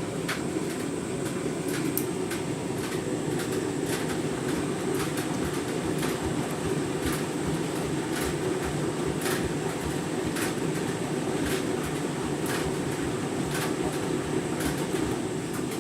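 Candy washing machine running its deep rinse: a steady churning of the turning drum, with irregular sharp clicks about once a second.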